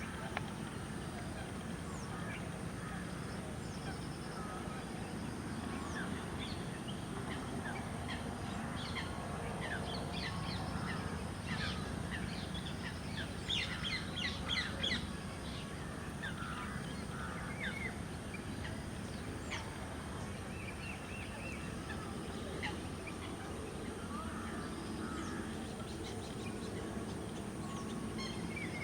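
Flock of lesser whistling ducks calling: many short, high, thin whistles that come thickest about halfway through, over a steady low background rumble.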